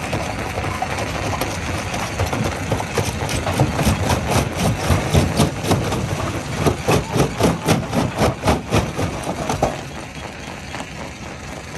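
Heavy diesel machinery running at a stone crusher, with a run of rhythmic pounding strokes, about three a second, that stops just before ten seconds in and leaves the engine running more quietly.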